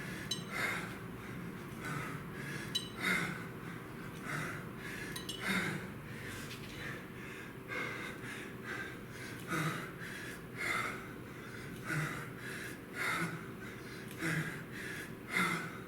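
A man breathing hard through a set of kettlebell work, with forceful exhales about once a second: heavy exertion near the end of a work interval.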